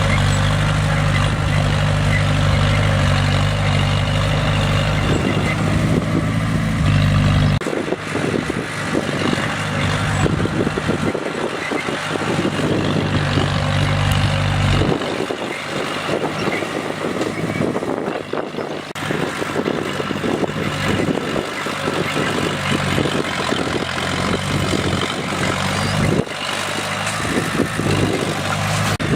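Bulldozer's heavy diesel engine working, its note changing as the load shifts. Stretches of rattling noise come and go between the steady engine tones.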